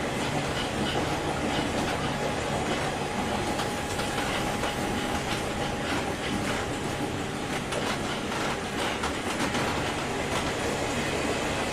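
JR 201-series electric train running at speed, heard from inside the motor car: steady rolling noise with clicks from the wheels over rail joints. A faint steady whine stops about eight seconds in.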